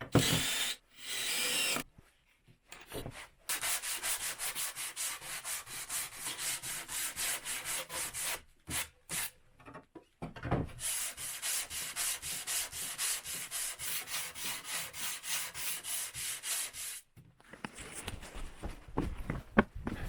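Wood being worked by hand for a lid, in rapid, even back-and-forth strokes. There are two long runs of strokes with a pause of about two seconds between them.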